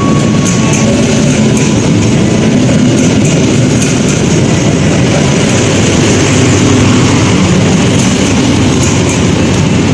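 Passenger train coaches passing through at speed without stopping: a steady, loud rumble of wheels on rail, with repeated clicks over the rail joints near the start and again near the end.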